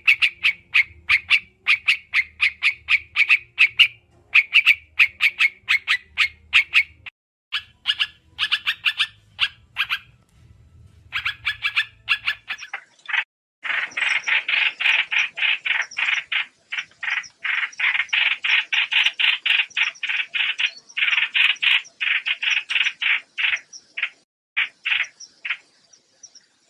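Recorded trao trảo birdsong played as a trapping lure: rapid chattering runs of short, high notes in bursts with brief pauses. About halfway in the notes turn denser and louder, running on almost without a break before thinning out near the end.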